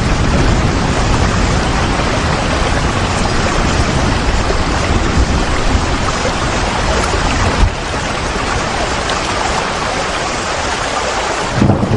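Steady heavy rain, an even hiss with a low rumble under it. The rumble drops away about two-thirds of the way through and swells back in just before the end.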